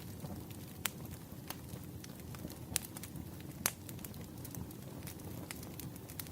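Wood fire burning: a steady low rush of flames with scattered sharp pops and snaps from the firewood, the loudest about three and a half seconds in.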